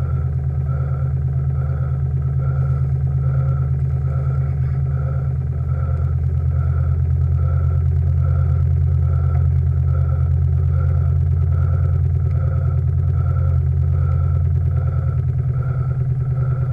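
Steam launch's gas-fired steam plant running steadily under way, a low rumble with a regular beat about two to three times a second. It gets a little louder about six seconds in.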